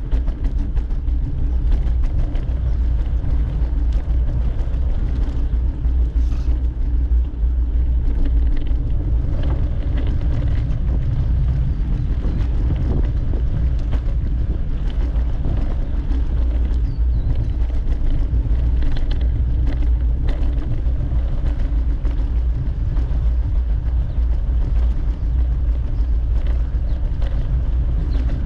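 Steady low rumble of wind buffeting the microphone while riding, with a faint hiss of road noise above it.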